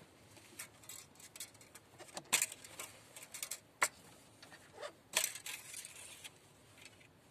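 Scattered clicks and short rustles of small hard objects being handled, the sharpest knocks about two, four and five seconds in.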